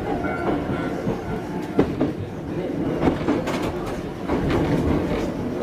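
Choshi Electric Railway 2000-series electric train running along the line: a steady rumble with repeated clacks of the wheels over rail joints.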